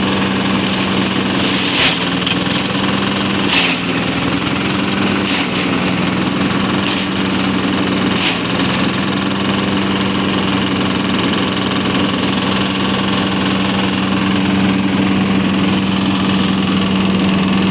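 Diesel engine driving a chaff cutter, running at a steady speed with an even hum. There are a few brief clicks about 2, 3.5 and 8 seconds in.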